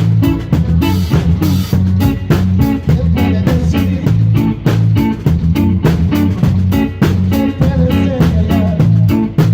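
Live band playing an upbeat instrumental passage: drums, bass and guitar in a quick, even rhythm.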